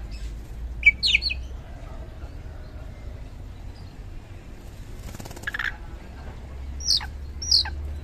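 Oriental magpie-robin (kacer) calling in separate notes: a sharp chirp about a second in, a rougher note in the middle, and two quick whistles that sweep steeply downward near the end, over a low background hum.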